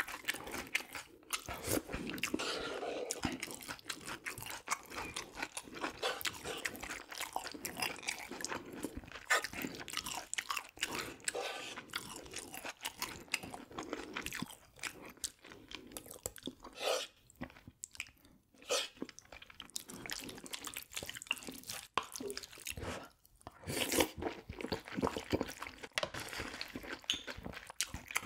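Close-miked chewing and crunching of a mouthful of food, in irregular bites, with a brief pause a little past the middle.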